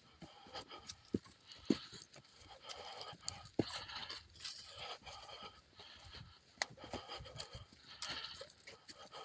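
Footsteps along a woodland trail, with irregular sharp clicks and knocks from the ground underfoot, and a hiker's heavy breathing as he walks.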